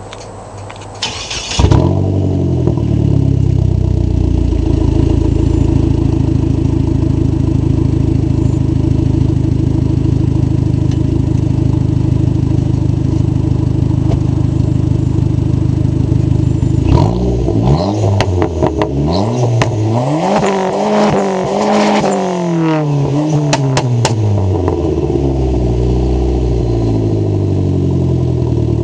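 Dodge SRT-4's turbocharged four-cylinder exhaust: the engine starts about a second and a half in and settles into a steady idle. After a long idle it is revved in several quick rising-and-falling blips, then drops back to idle.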